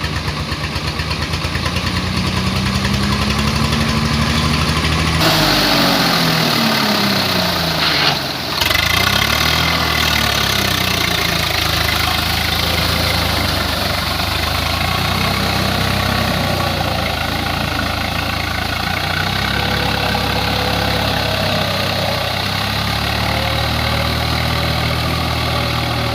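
Swaraj 744 FE tractor's three-cylinder diesel engine running, its pitch rising and falling with engine speed. About five seconds in, a louder, harsher rattling noise joins suddenly and carries on with the engine.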